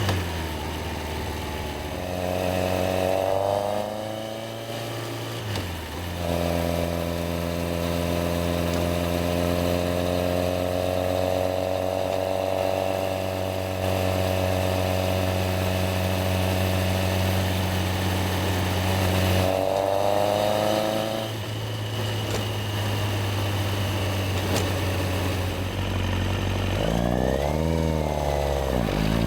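Yamaha XJR1300's air-cooled inline-four engine heard while riding. At first the revs fall and then climb through a gear change. A long steady cruising note fills the middle, followed by a shift and a short rise, a lower steady stretch, and then revs climbing through quick upshifts near the end.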